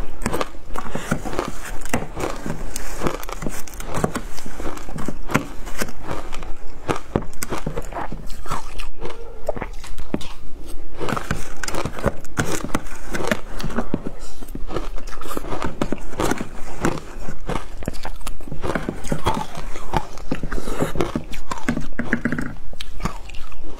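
Close-up crunching of shaved ice being bitten and chewed, many irregular crunches a second without a break.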